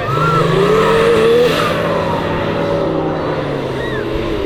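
Off-road 4x4's engine revving hard under load, its pitch climbing over the first second and a half, then holding steady.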